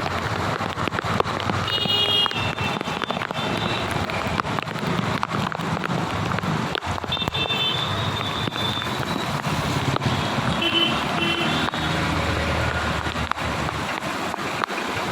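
Road traffic moving along a rain-flooded street in steady rain, a continuous wash of engine, tyre and water noise. Short high-pitched tones sound three times.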